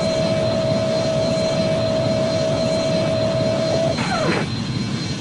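Air traffic control radio hiss with a steady whistle tone. About four seconds in, the tone cuts off with a quick falling chirp, and the hiss runs on a little quieter.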